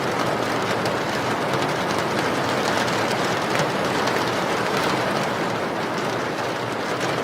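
Steady heavy rain: an even, unbroken hiss with faint scattered drop ticks on top.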